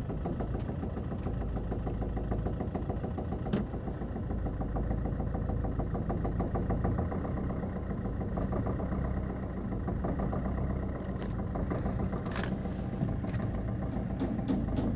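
Maruti Suzuki Ertiga Smart Hybrid engine running at idle with a fast, rough knocking. This is the knock and unsteady idle that the mechanic cures by servicing the injectors.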